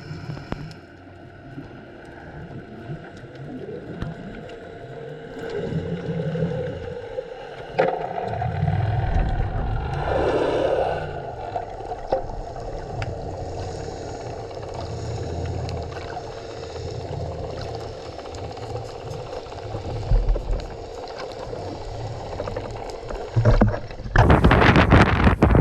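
Water and boat noise at sea: an uneven low sloshing rumble with a faint steady hum. A brief swell of sound comes about ten seconds in, and a loud rush of wind and water starts near the end.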